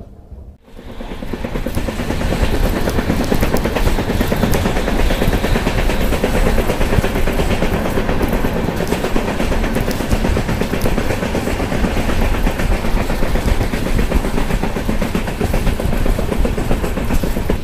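Train running along the track: a loud, steady rumble and clatter of wheels on rails that cuts in suddenly about a second in.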